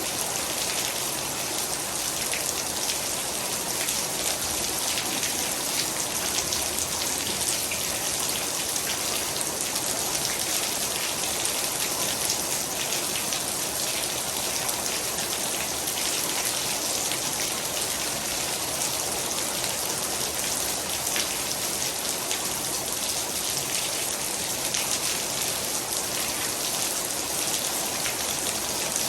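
Heavy rain falling steadily: a dense, even hiss of countless raindrops hitting surfaces, with no letup.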